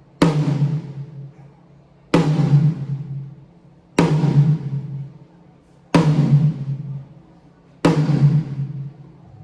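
A single drum on a drum kit is struck five times, about one hit every two seconds, and each hit rings out with a low pitched tone before the next. These are steady, even hits of the kind used to check one drum's level during a sound check.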